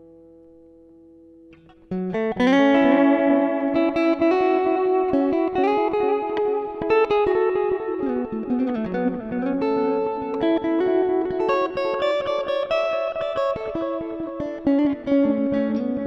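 Stratocaster electric guitar played through a Valeton Dapper Mini amp-simulator pedal. A held note dies away, then about two seconds in a quick run of single melodic notes starts and keeps going.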